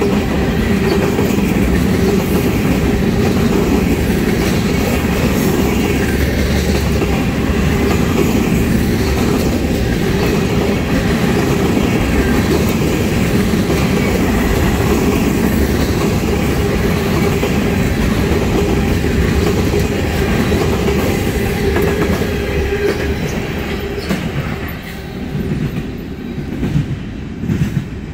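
Tank cars of a freight train rolling past close by: a steady rumble and clatter of steel wheels on the rails. Near the end the sound drops off as the last cars pass and the train moves away.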